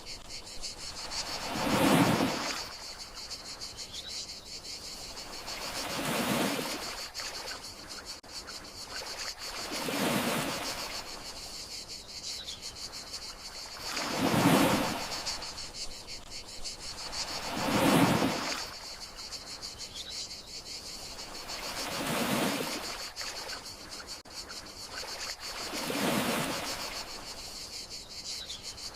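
Gentle sea waves washing onto the shore, one swell about every four seconds, over a steady high chirring of crickets.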